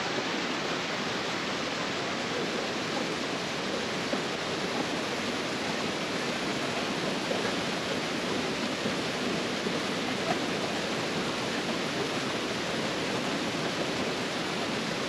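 Steady rushing of a large waterfall: an even, unbroken hiss of falling water.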